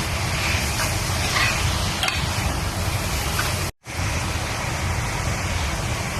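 Steady hiss of food frying in a pan over a low hum, with a few faint clicks, broken by a brief total dropout about three and a half seconds in.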